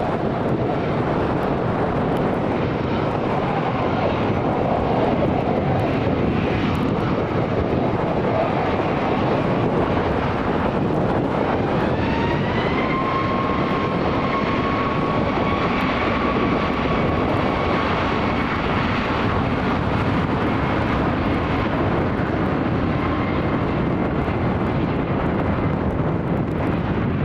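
Ryanair Boeing 737 jet engines running loud and steady, with a whine that rises about twelve seconds in and then holds: the engines spooling up to takeoff power for departure.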